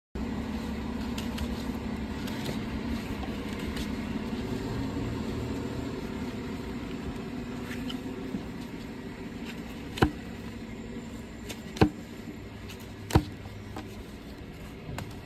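Hoof trimming on a shire horse: a steady low hum in the background, with three sharp clicks in the last third.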